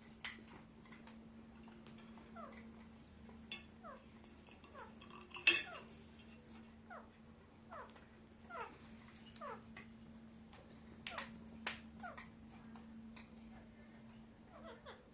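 Pet parakeet making many short, quickly falling chirps and squeaks, scattered through, with a few sharp clicks; the loudest click comes about five and a half seconds in. A steady low hum runs underneath.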